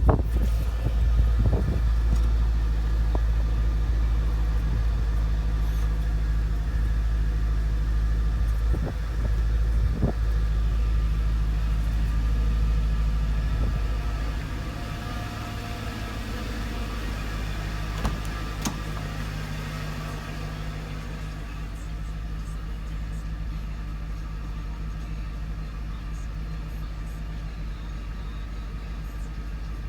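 Mercedes-Benz E55 AMG V8 idling on a cold start at a raised fast idle, then about halfway through the idle drops and the engine runs quieter and lower as it settles. A few short clicks or knocks sound over it.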